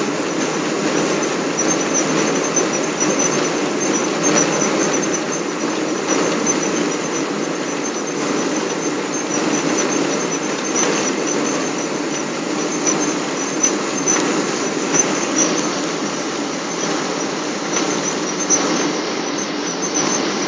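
Steady cabin noise inside a Boeing 777: an even rush of engine and airflow noise heard from a passenger seat, strongest in the low-middle range.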